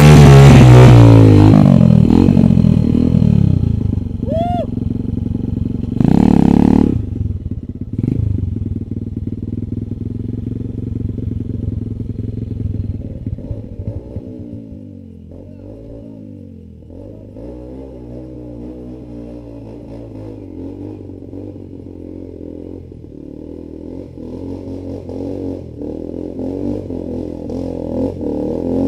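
Dirt bike engines on a trail: one runs loud at first and drops in pitch as the throttle eases off, with a short loud blip about six seconds in. Then the engines run quieter with slow rising and falling revs, growing louder again near the end.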